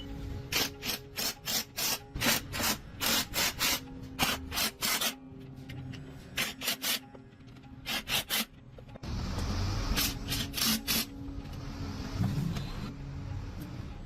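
A hand tool scraping a metal gearbox part in quick back-and-forth strokes, about three a second, in runs with short pauses; from about nine seconds in, a steadier rubbing sound.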